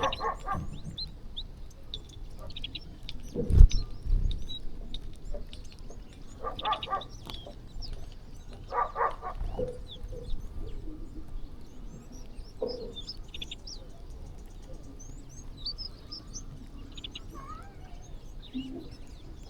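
Many small birds chirping and twittering while feeding, with a few louder animal calls about a third and half of the way through. A single low thump about 3.5 seconds in is the loudest sound.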